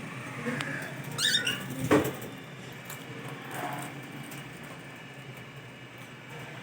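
Cockatiels feeding on watermelon: a short run of high chirps about a second in, then a single sharp knock just after, over soft low scuffling.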